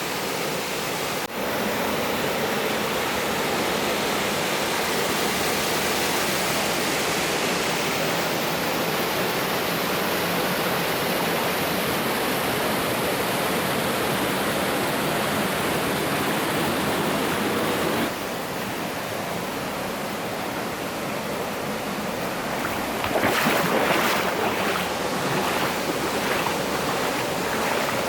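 Mountain stream water rushing steadily over rocks. It drops slightly in level at a sudden change about two-thirds of the way in, and a short run of splashes follows near the end.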